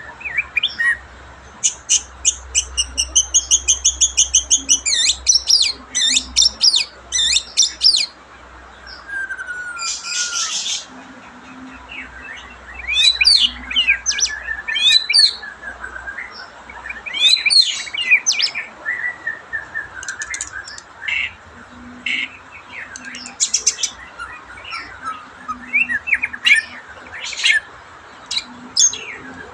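White-rumped shama (murai batu) singing a long, varied song. It mixes runs of fast repeated notes, a harsh chattering burst, and rising and falling whistles. In bird-keeping terms, this is a bird singing again as it comes back into condition after a 'trouble' slump.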